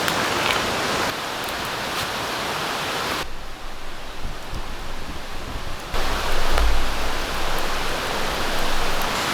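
Steady rain falling in a forest: a dense hiss with scattered drop ticks. The sound shifts abruptly about one, three and six seconds in, duller in the middle stretch, with a brief low rumble just after six seconds.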